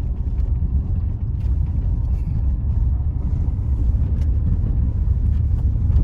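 Car driving on a rough unpaved road: a steady low rumble of engine and tyres, with faint scattered clicks.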